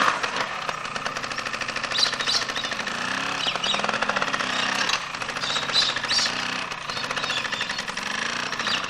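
Motorcycle engine running with a rapid, even exhaust beat, its revs rising and falling several times.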